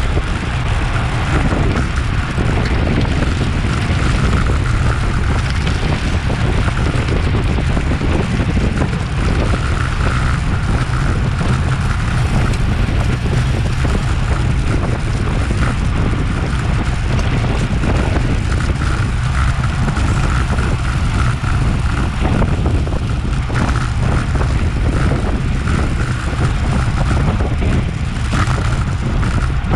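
Heavy wind noise buffeting a bike-mounted action camera's microphone as a racing bicycle rides at speed: a loud, steady low rumble with a faint steady whir above it.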